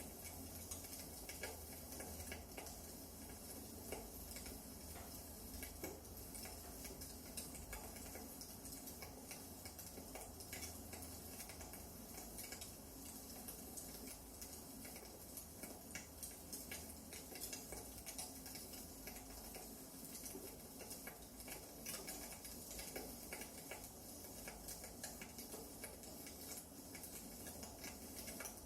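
Wood fire crackling: irregular small pops and snaps over a soft steady hiss.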